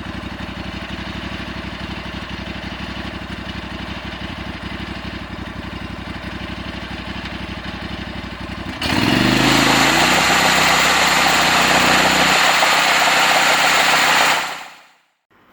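Engine of a homemade sawmill idling steadily, then suddenly revved up about nine seconds in, pitch climbing and holding high and loud at full speed. The sound fades out just before the end.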